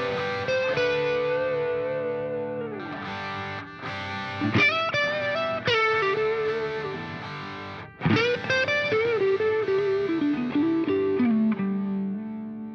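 Music: a distorted electric guitar playing long held notes that bend and slide in pitch, with a fresh attack about four and a half seconds in and again about eight seconds in, beginning to fade near the end.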